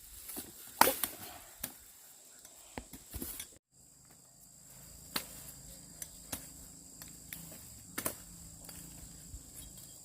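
Irregular sharp knocks and clicks over a faint, steady, high-pitched chirring of insects. The sound cuts out for a moment a few seconds in.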